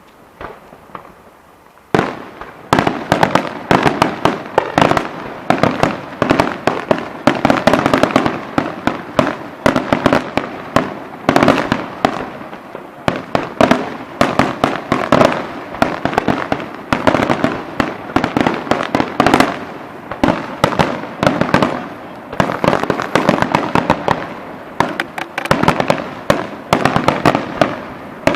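Fireworks display: after a short lull, about two seconds in, a dense barrage of rapid bangs and crackles starts and keeps going in uneven waves.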